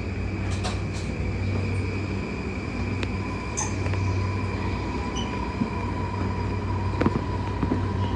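Running sound inside an E235-0 series electric commuter train motor car: a steady low rumble with a faint constant whine, broken by a few sharp knocks.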